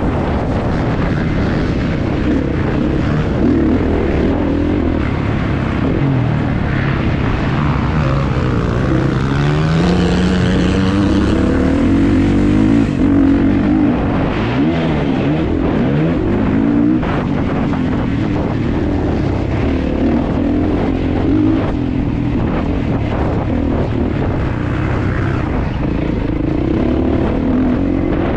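Kawasaki KX450 motocross bike's single-cylinder four-stroke engine revving under race load, its pitch climbing and dropping again and again with the throttle and gear changes.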